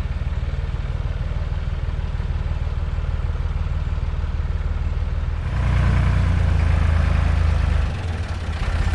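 Forklift engine running at low throttle while moving a heavy load, revving up louder about five and a half seconds in for a couple of seconds, then dropping back.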